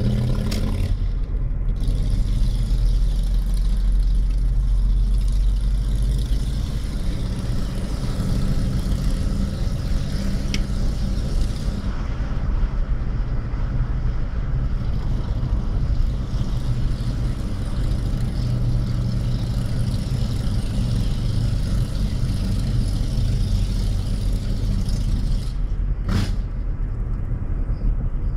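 Harley-Davidson motorcycle's V-twin engine running steadily, with a brief sharp knock near the end.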